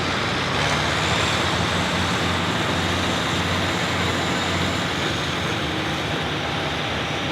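Diesel engine of an International 1066 hot farm pulling tractor running steadily, with a faint high whine that rises about a second in and then holds.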